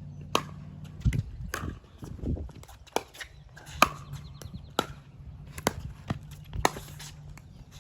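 Pickleball rally: paddles hitting the hard plastic ball and the ball bouncing on the court make about eight sharp hollow pops, spaced roughly a second apart.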